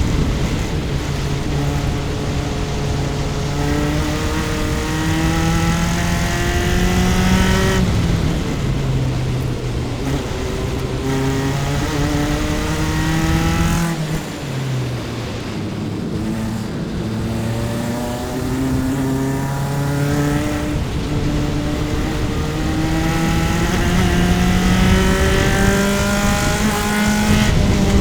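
Onboard sound of a single-seater race car's engine under hard acceleration, its pitch climbing through each gear and dropping back at every upshift. About halfway through the car lifts off and the pitch falls, then it climbs through the gears again.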